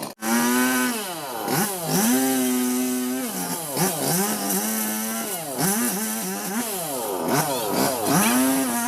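Robin Plus two-stroke chainsaw running at high revs. Its pitch holds steady at full speed, then dips and climbs back several times.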